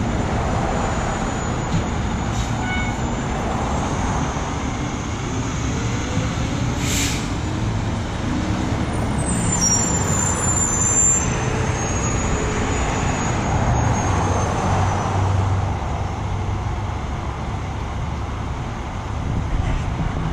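Road traffic passing steadily, with the low engine note of a large vehicle such as a truck or fire apparatus among it.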